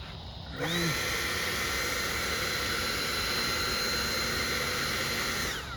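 Electric ducted fan of a radio-controlled L-39 Albatros model jet spooling up about half a second in, running at a steady high whine over a loud rushing hiss, then winding down just before the end.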